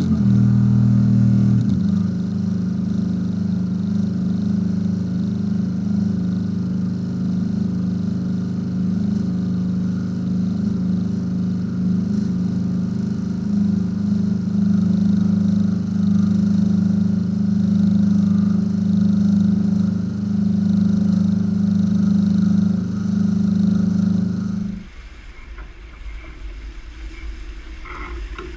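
A sailboat's inboard engine running at a constant speed, a steady low drone. About 25 seconds in it cuts off abruptly to a quieter wash of water and hull sounds.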